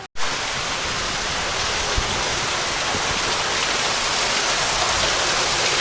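Steady, loud rush of falling water with no rhythm or pitch, starting abruptly at a cut.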